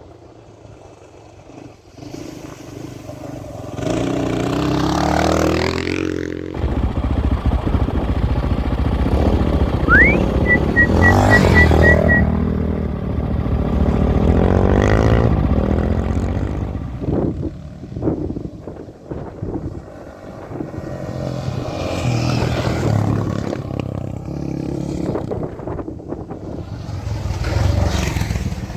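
Honda XR650R single-cylinder dirt bike engine under way, revving up and easing off again and again as it rides, with clatter over the rough ground. It is quiet for the first couple of seconds, then climbs and runs loud from about a quarter of the way in.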